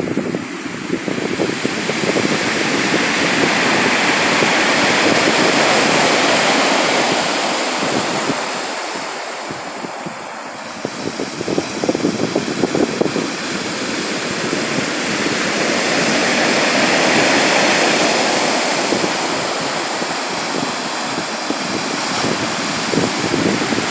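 Sea surf: waves breaking and rushing up the shore in two large swells about twelve seconds apart, with a crackling wash between them.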